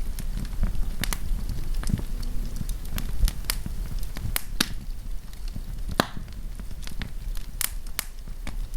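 Wood fire crackling, with sharp irregular pops and snaps of burning wood over a low steady rumble.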